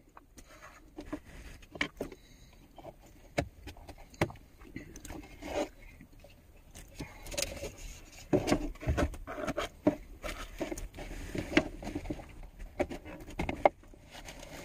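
Irregular scraping, crackling and clicking handling noises inside a vehicle cab, coming in loose clusters with short lulls.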